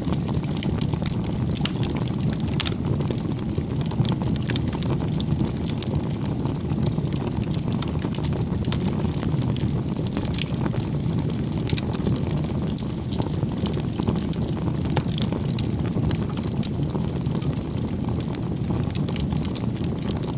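Crackling campfire: a steady low rumble of burning wood with frequent small, irregular pops and snaps.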